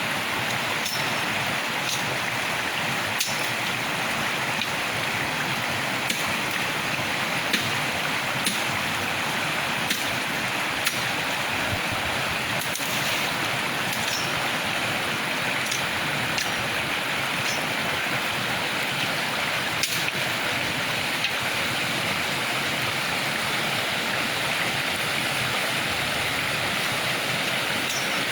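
River water running steadily, with scattered brief clicks every second or two.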